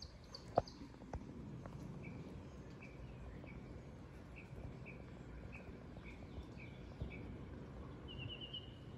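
Faint outdoor background with a bird chirping: short single high notes about twice a second, then a quick run of notes near the end. A couple of soft clicks come in the first second or so.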